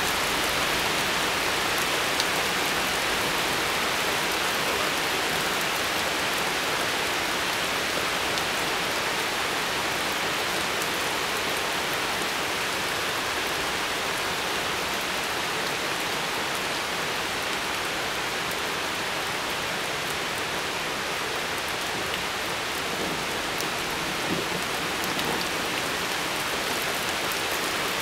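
Steady rain falling in a thunderstorm: an even, dense hiss of drops with faint scattered ticks of individual drops hitting.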